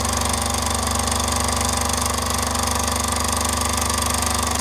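Mamod MM2 model steam engine, a small single oscillating cylinder, ticking over at a steady fast beat with no rattle from loose parts.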